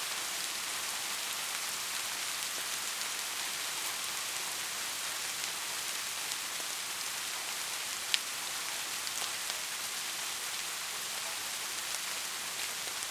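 Steady rain falling: a dense, even hiss with scattered single drops ticking, and one sharper drop hit about eight seconds in.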